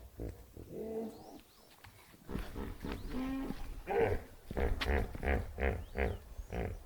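A farm animal calling repeatedly: a series of short, pitched calls, coming closer together in the second half.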